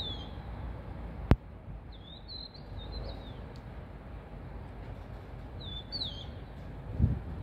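A bird calling in short, high whistled phrases of two or three notes, a few times, over a low background rumble. A single sharp click about a second in is the loudest sound, and there is a low thump near the end.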